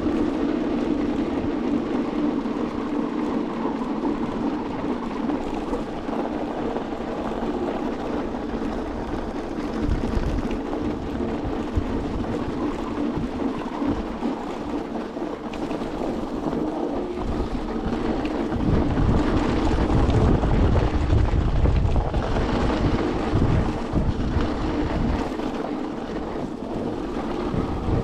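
Electric two-wheeler riding along with a steady motor hum, while wind buffets the microphone in low rumbling gusts that are heaviest about two-thirds of the way through.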